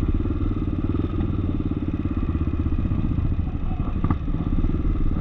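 Off-road trail motorcycle engine running steadily under way, with a brief knock about four seconds in.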